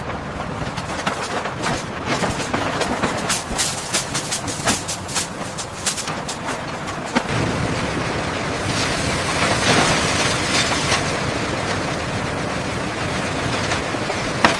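A quick, irregular run of clattering clicks and knocks for about the first seven seconds, giving way to a steady rushing noise.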